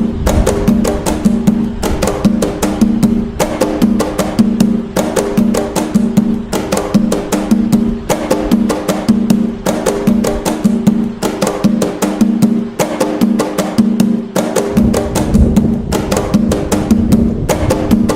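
Atabaque hand drums playing the nagô rhythm (toque nagô) of Umbanda, a fast, evenly repeating pattern of sharp slaps and ringing open tones. The deepest strokes drop out for a couple of seconds in the second half, then come back.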